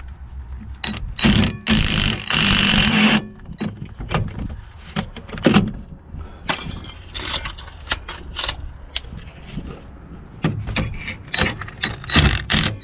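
Ryobi P263 brushed cordless 3/8-inch impact wrench running in two short bursts, spinning out bolts that are already loose. Between and after the bursts come metallic clinks, clatter and scrapes of bolts and tools being handled.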